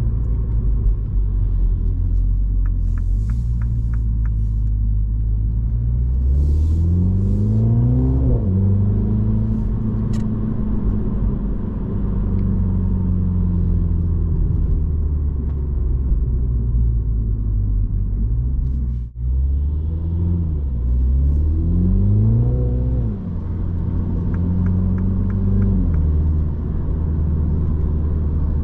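Mini Cooper S (F56) 2.0-litre turbocharged four-cylinder engine heard from inside the cabin while driving, a steady drone under road noise. Its pitch climbs under acceleration and drops back at upshifts of the automatic gearbox: once about a quarter of the way in, then twice in quick succession past two-thirds. Faint rows of ticking come early on and again near the end.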